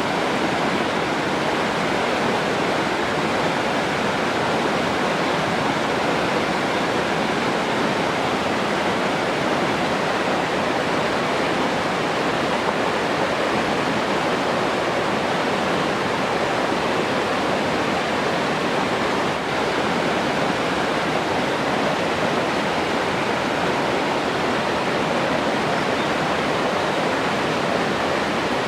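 Steady rushing water, an even unbroken wash with no changes.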